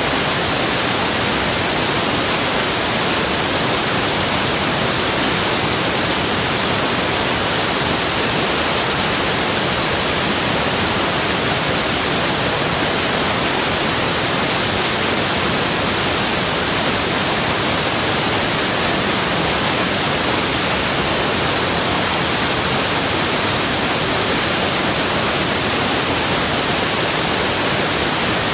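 Waterfall rushing, a steady, dense hiss of falling water that does not change.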